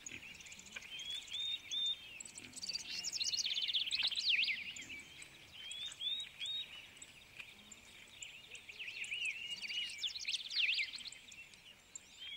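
Several small birds chirping and calling, in short high notes, some in quick groups of three, with a busier run of rapid trilled calls about three to four seconds in.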